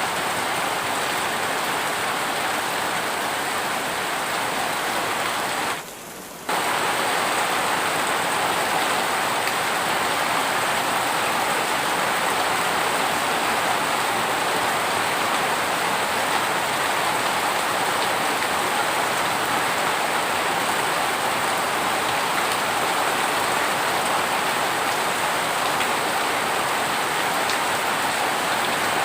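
Heavy rain falling steadily in a dense, even hiss, briefly dipping in level for under a second about six seconds in.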